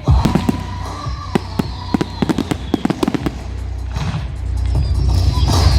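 Fireworks going off: a rapid string of sharp cracks and bangs over a low rumble, with long whistles sliding slowly in pitch, one loud whistle near the end.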